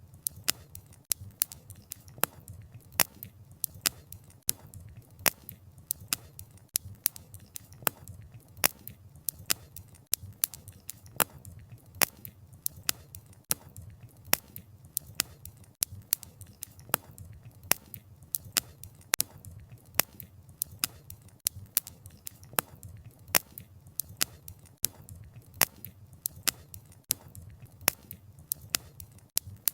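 Wood bonfire crackling: sharp pops and snaps from the burning firewood, a few each second and some louder than others, over a low, steady rumble of the flames.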